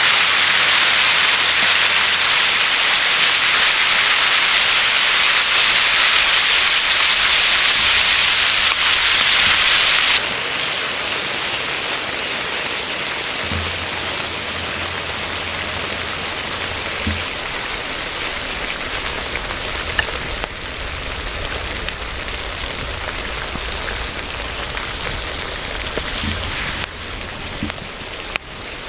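Steady hissing noise, loud for about the first ten seconds, then dropping abruptly to a quieter hiss with a few scattered small clicks.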